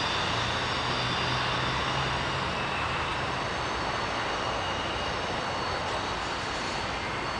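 Slow freight train rolling past, a steady noise of its wheels on the rails.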